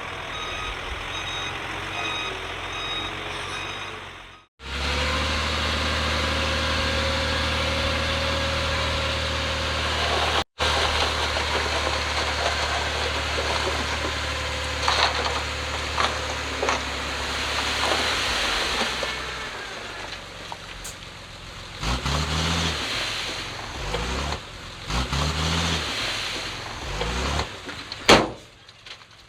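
A heavy machine's reversing alarm beeps over a diesel engine. After a cut, a heavy diesel engine runs steadily, and near the end it revs up briefly twice.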